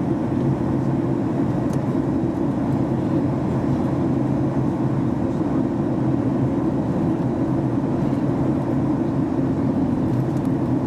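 Steady cabin roar inside a Boeing 737 MAX 8-200 in flight: its CFM LEAP-1B engines and the airflow over the fuselage make an even, deep rush with a low steady hum running through it.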